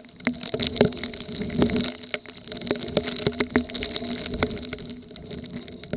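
Heavy typhoon rain pouring down, with frequent sharp drops striking close to the microphone.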